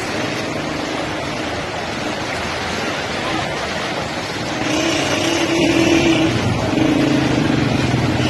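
A car engine running over a steady rush of water and rain, the engine getting louder about halfway through.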